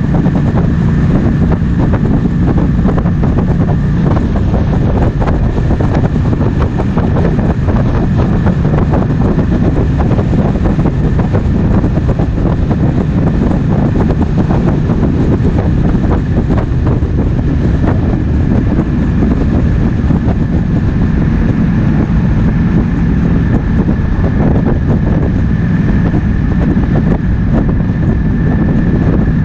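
Triumph Speed Twin 1200's parallel-twin engine running steadily while riding, with wind buffeting the microphone.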